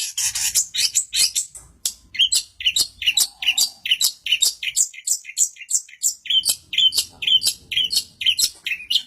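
Cendet (shrike) in full song: a fast run of short, high chirping notes, packed closely together at first and then coming about three a second.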